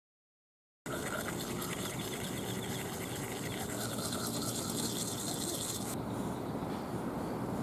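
Steady outdoor background hum and hiss, typical of distant city traffic, starting abruptly after a moment of silence; the high hiss drops away about six seconds in.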